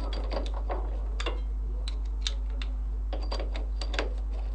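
Irregular light metallic clicks and small rattles of metal parts being fitted by hand, over a steady low hum.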